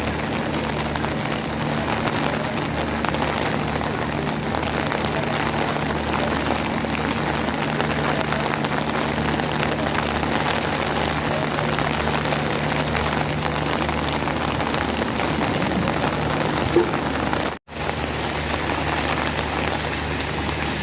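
Rain falling steadily, an even hiss with a low steady hum underneath. The sound cuts out for an instant about three-quarters of the way through.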